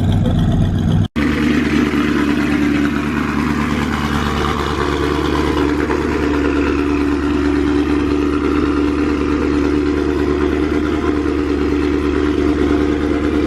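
A car engine idling steadily with a low, even exhaust note. There is a brief dropout in the audio about a second in.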